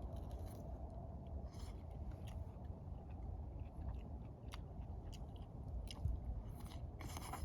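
A person chewing mouthfuls of self-heating hotpot, with scattered small clicks over a steady low rumble and a short louder noisy burst near the end.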